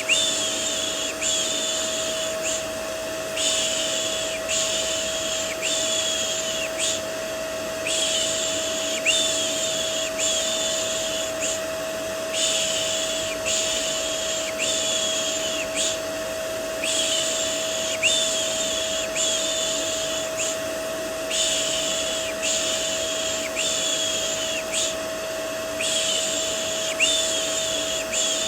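Rhythmic hushing, 'shh, shh', repeated about once a second in runs with short breaks, over the steady drone of a vacuum cleaner with a constant whine. This is a soothing sound for settling a baby to sleep.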